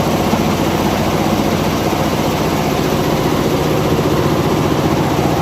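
Richpeace 20-head, 9-colour flat embroidery machine running, its heads stitching in a rapid, steady clatter.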